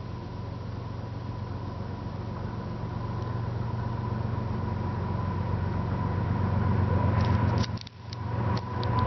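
Approaching freight train led by two GE Evolution-series diesel locomotives: a steady low engine rumble that grows gradually louder. Near the end the sound briefly drops out, with a few sharp clicks.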